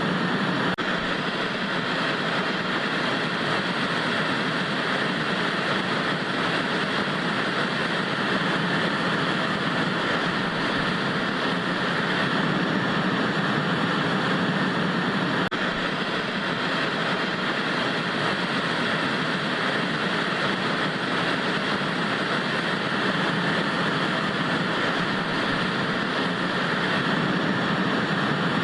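Analogue TV static: a steady hiss with a few faint clicks.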